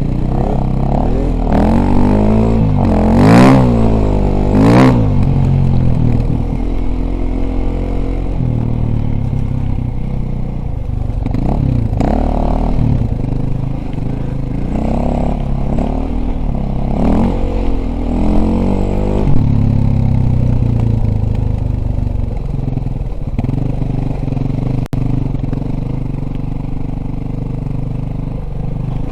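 Dirt bike engine being ridden, its pitch rising and falling over and over as the throttle is opened and closed, with the hardest revs a few seconds in.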